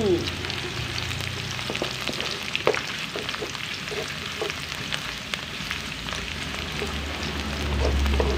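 Sliced shallots, garlic, Indonesian bay leaves and galangal sizzling and crackling in hot oil in a wok. A wooden spatula stirs them, with short scrapes and taps against the pan.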